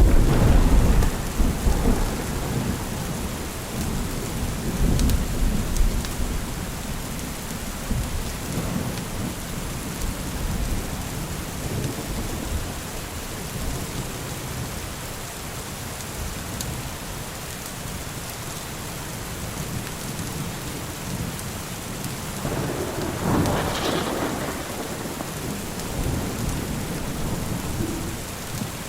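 Steady rain with thunder: a loud rolling rumble at the start that dies away over about six seconds, and a second, shorter rumble about 23 seconds in.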